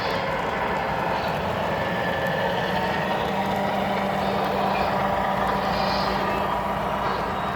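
O scale three-rail model train running, with the steady rolling noise of its wheels on the track; a steady low hum comes in about three seconds in, and a brief hiss sounds about six seconds in.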